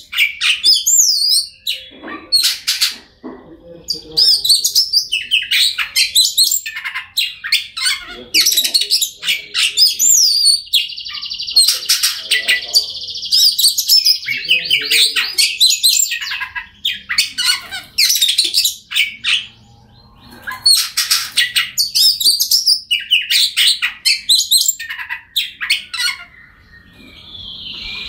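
Oriental magpie-robin (kacer) singing a fast, varied run of whistled phrases and chirps, with a long buzzing trill about eleven seconds in and another near the end.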